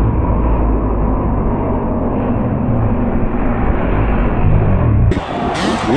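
Two-stroke Suzuki RM motocross bike's engine running hard under throttle, heard from the rider's helmet camera as a steady, muffled sound with a strong low rumble. About five seconds in the sound turns clearer and the engine's pitch rises and falls as it revs.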